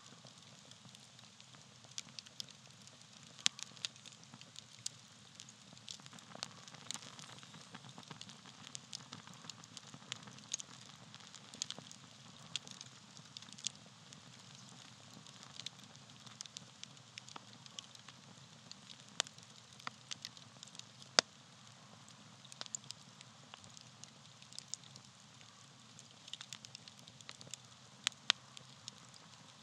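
Campfire of dry tree bark crackling, a soft steady hiss with irregular sharp pops and snaps, a few of them much louder than the rest.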